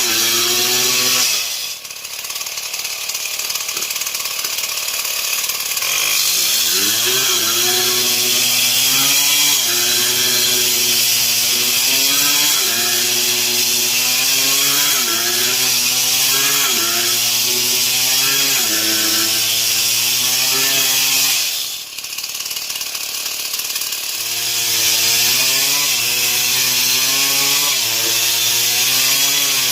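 Stihl MS 070 two-stroke chainsaw cutting wood, its engine pitch wavering up and down under load. It drops toward idle about two seconds in and again about twenty-two seconds in, revving back up a few seconds later each time.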